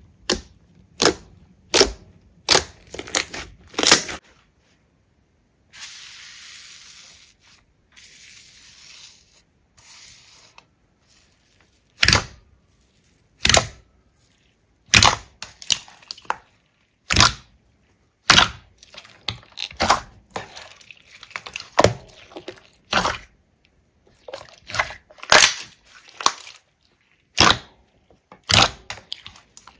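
Slime being squeezed and poked by hand, giving sharp, irregular popping clicks as air pockets burst, with a stretch of soft hissing about six seconds in.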